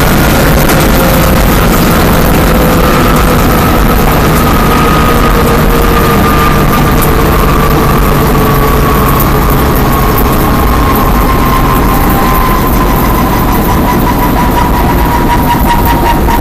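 Stock car's V8 engine running loud, heard from inside the cockpit. Its pitch falls slowly and steadily as the revs come down.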